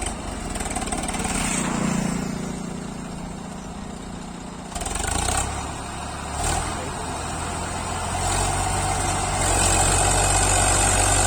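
Tractor engine running and working under load, growing louder in steps and holding its loudest, steady note near the end.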